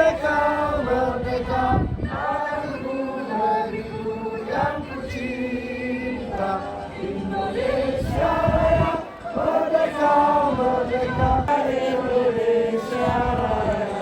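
A group of voices singing together in sustained, stepping notes, like a choir or a crowd singing a song.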